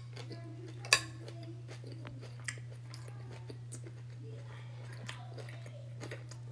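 A person chewing a mouthful of food with the mouth closed. About a second in there is one sharp clink, a metal spoon set down in a glass baking dish, and a smaller tap follows later, over a steady low hum.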